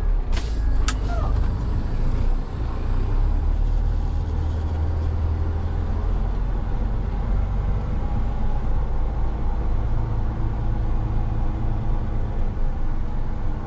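Roll-off truck's diesel engine running steadily at high idle to power the hydraulic hoist, with a few sharp clicks in the first second.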